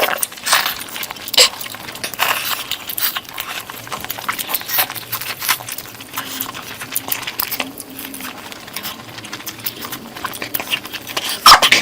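Close-miked chewing and wet mouth sounds of a person eating curry: irregular smacks, clicks and squelches, with no steady rhythm.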